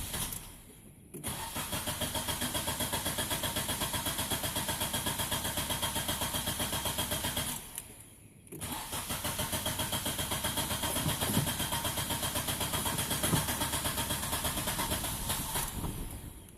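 Nissan Pulsar engine cranking on its starter motor in two long, rhythmic attempts of about six and seven seconds with a short pause between: hard starting after a throttle body clean.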